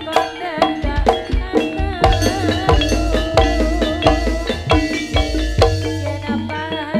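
Live Javanese jaranan gamelan music: quick, dense hand-drum strokes over ringing pitched metal percussion, with a deep low note sounding through much of it.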